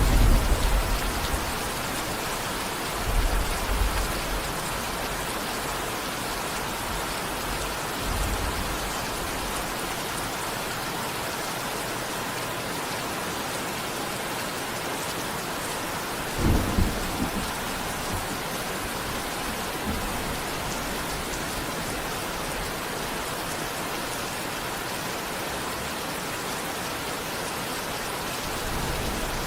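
Steady rain with thunder: low rumbles come and go several times, the sharpest a little past halfway.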